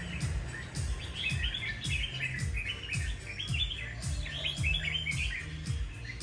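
Red-whiskered bulbul singing a run of quick, warbling chirpy phrases, over background music with a steady beat.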